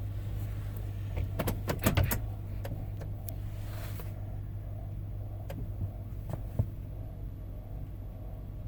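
2007 Chevrolet Tahoe's 5.3 L V8 running, heard as a steady low hum inside the cabin. A quick cluster of clicks and knocks comes about a second and a half in, and a few single clicks follow later. A high hiss stops suddenly about four seconds in.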